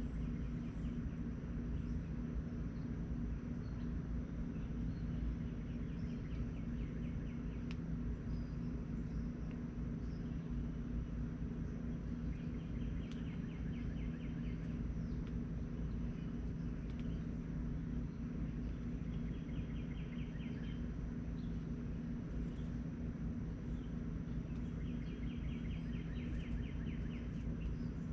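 A bird's fast, high trill, repeated five times with long pauses between, each trill lasting one to two seconds, over a steady low hum of background noise.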